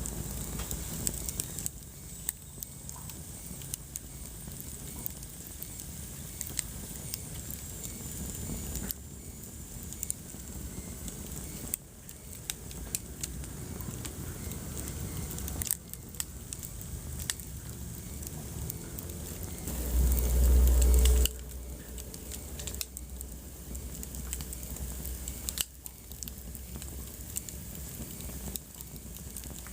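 Wood fire crackling in a fireplace, with many sharp pops and snaps over a steady low rumble of flame. About two-thirds of the way through, a brief loud low rumble lasts about a second and a half.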